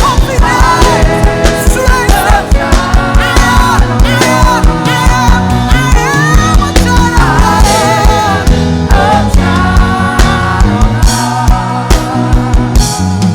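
Live gospel worship band playing an upbeat praise song, with singing over a fast steady kick-drum beat and bass.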